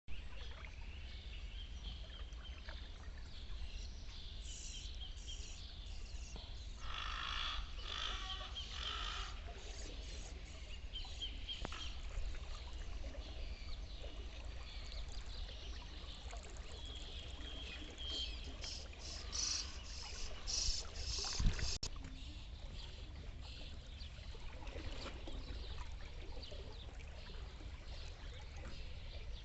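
Birds calling in two bouts of quick repeated notes, one about a quarter of the way in and one about two-thirds of the way in, over a steady low rumble of wind or handling noise. A single sharp knock comes just after the second bout.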